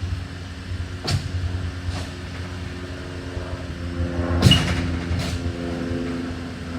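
Steady engine-like rumble of an idling vehicle, with sharp knocks and clangs of junk being thrown and handled during truck loading: a few separate hits, the loudest about four and a half seconds in.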